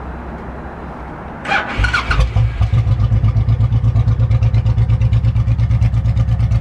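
2005 Honda VTX1800's 1,795 cc V-twin engine being started: a brief crank about a second and a half in, then it catches at once. It settles into a steady, even idle of about eight pulses a second.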